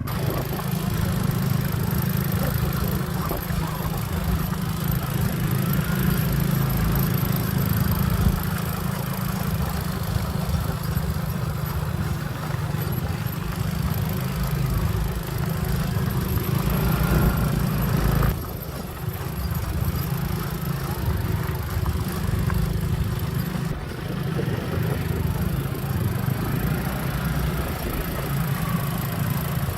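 Motorbike engine running while riding along, with a loud, steady low rumble that dips briefly about two-thirds of the way through.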